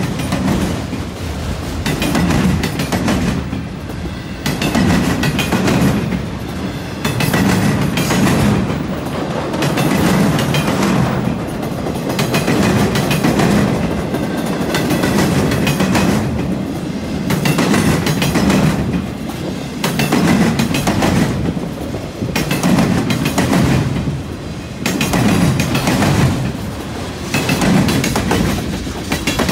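Freight cars of a long freight train rolling past at speed, their steel wheels clacking over the rail joints and a junction switch. The clatter swells about every two seconds as each car's pair of trucks goes by.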